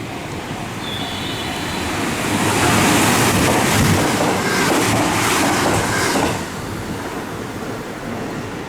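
A train passing through a station at speed without stopping: the noise of the wheels on the rails builds, runs loud for about four seconds, then drops away suddenly as the train clears.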